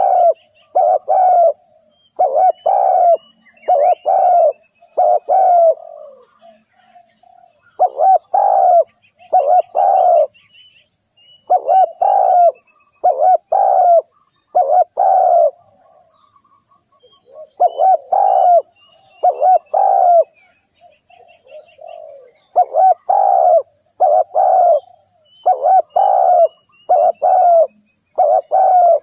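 Spotted dove cooing: phrases of several low, even coos repeated with short pauses between them, over faint high chirping of small birds.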